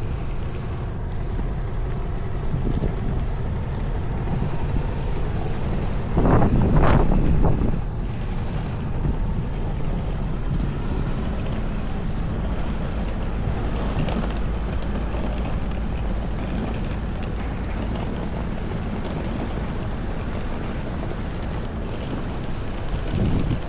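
Strong wind buffeting the microphone, a steady low rumble, with a louder rush lasting about two seconds, roughly six seconds in.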